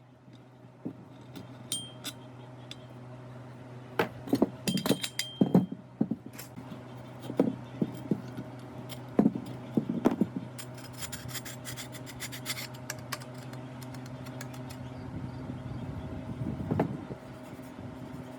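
Small metal parts clinking, knocking and rubbing against each other in irregular bursts, over a steady low machine hum.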